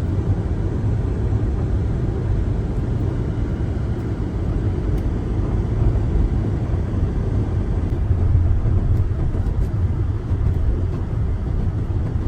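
Car driving on a snowy road: a steady low rumble of engine and tyre noise with no break.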